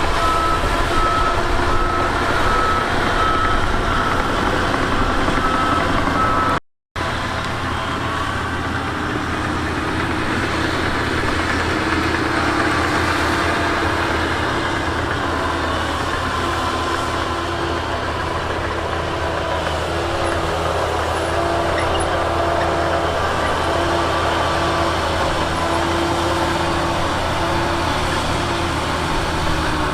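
Heavy diesel earthmoving machinery running steadily, with a truck's reversing alarm beeping repeatedly for the first several seconds. After a brief dropout about seven seconds in, the engines keep running and a lower-pitched tone comes and goes over them.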